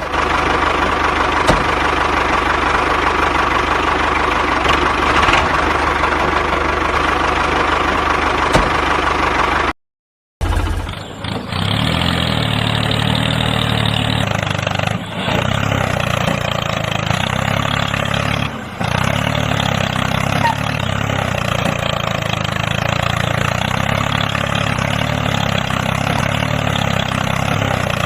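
DIY mini tractor's motor running steadily. The sound cuts out completely for about half a second roughly ten seconds in, then resumes with a throbbing low beat.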